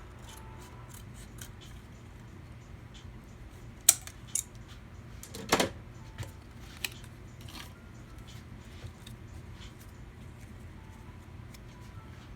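Light clicks and taps of small hard parts being handled, with a sharp click about four seconds in and a louder double click-clack about five and a half seconds in, over a steady low hum.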